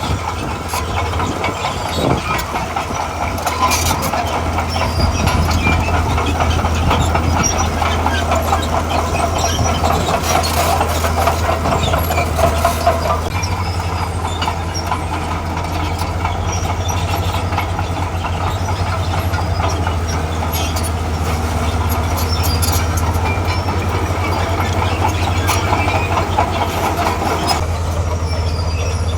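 Heavy crawler machine working: a diesel engine running under load with clanking and clattering from its steel tracks and blade or bucket. The engine note shifts about thirteen seconds in and again near the end.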